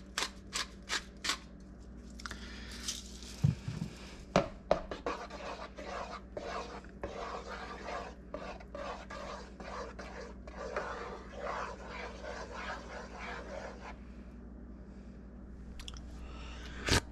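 A pepper mill being twisted, clicking about three times a second, then for about twelve seconds a spoon scraping and stirring around a pot of soup.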